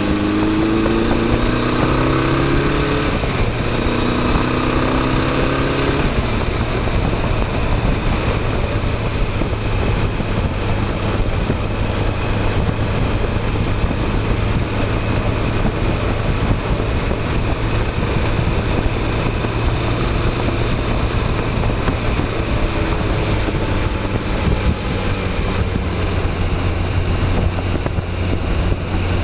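Motorcycle engine heard from on the bike, climbing in pitch twice through the first six seconds as it accelerates through a gear change, then settling into steady running under a constant rush of wind noise.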